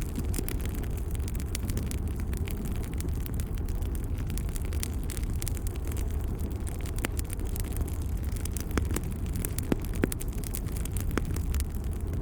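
Wood fire burning in a fireplace: a steady low rumble of flames with frequent sharp crackles and pops scattered irregularly throughout, a few louder pops in the second half.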